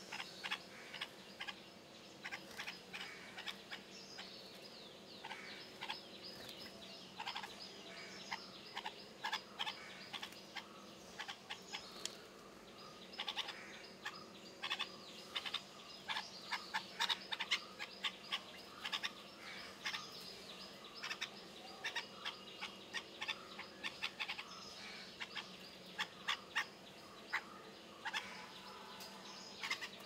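Birds chirping: many short, sharp calls, irregular and often in quick runs, over a faint steady hum.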